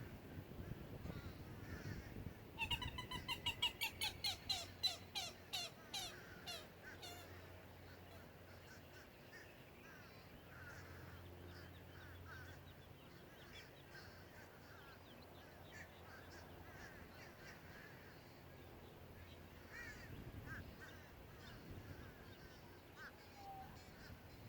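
A bird calling loudly in a quick series of a dozen or so harsh calls, each falling slightly in pitch, from about two seconds in until about seven seconds in. Faint chirping of other birds follows.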